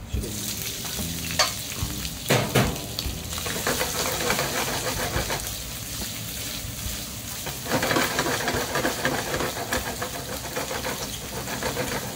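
Raw shrimp dropped into hot olive oil with garlic and chili, sizzling at once over a high flame, with a few sharp knocks in the first few seconds as they go in and are stirred. The frying hiss carries on steadily while the pan is tossed and stirred, growing louder and more crackly about eight seconds in.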